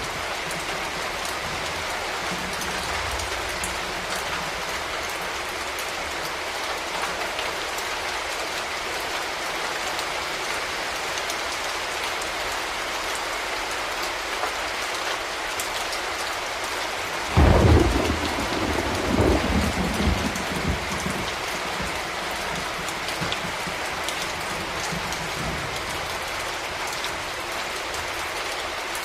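Steady heavy rain falling, with a sudden clap of thunder a little past halfway that rolls on as a rumble for about three seconds.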